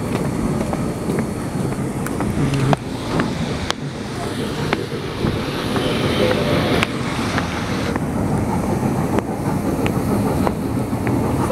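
Steady rumble of a small tourist train rolling over paving, heard from aboard, with wind on the microphone and a few sharp clicks and knocks.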